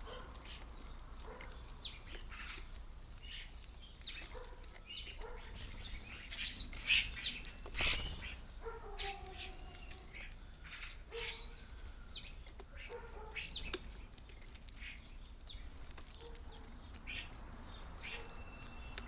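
European starlings at a bird table, giving scattered clicks, squeaks and whistles, with a few louder calls between about six and eight seconds in.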